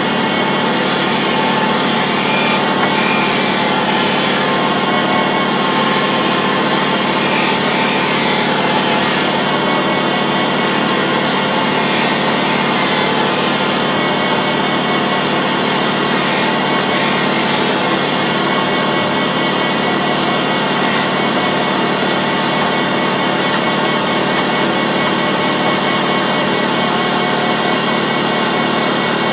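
Metalworking machine tool running steadily as it takes a cut across a steel wood chipper blade held in a jig, a continuous dense machining noise with steady tones over it.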